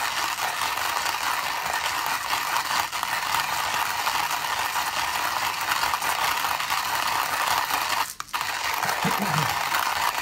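Khaw-Fee HG1B manual burr coffee grinder being cranked by hand, beans crunching and rattling between the burrs at a fine setting. The grinding is steady, with one brief break about eight seconds in.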